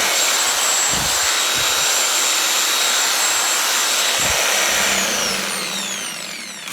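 Skil 4900 reciprocating saw running unloaded at full speed, then released about five seconds in and winding down with a falling whine. The motor, freshly repaired after its rotor had seized, runs without clanking or other odd noises.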